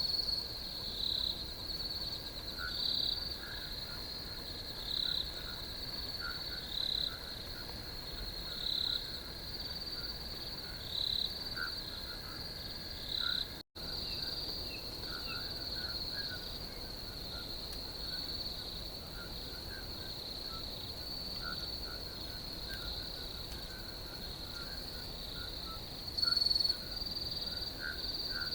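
Crickets trilling steadily in a high, unbroken chorus, with a louder chirp repeating about every two seconds in the first half and scattered fainter, lower chirps throughout. The sound cuts out for an instant about halfway through.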